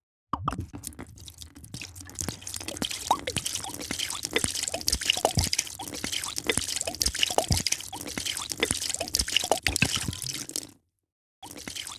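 A drink being poured: liquid splashing with a dense run of small plops and drips over a steady hiss, cutting off suddenly near the end.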